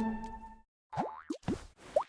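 Background music fading out. Then a quick series of about four short cartoon 'bloop' sound effects, each a rising pop.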